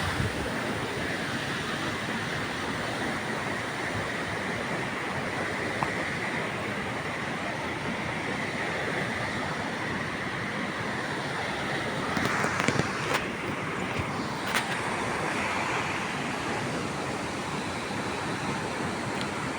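Steady rush of a waterfall's falling water, an even noise without pitch, with a few sharp clicks about two-thirds of the way through.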